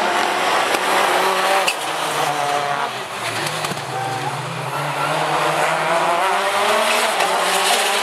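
Rallycross Supercars racing, several engines revving and rising and falling in pitch, with a few sharp cracks. The sound dips slightly about three seconds in, then builds again.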